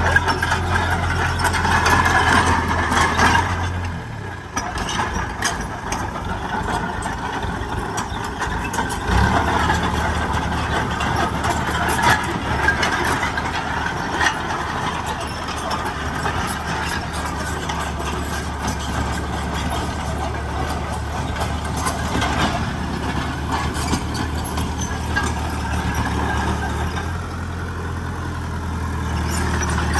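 Heavy diesel construction machinery running at a worksite: a steady low engine hum that drops away about four seconds in and comes back a few seconds later, with scattered knocks and clatter over it.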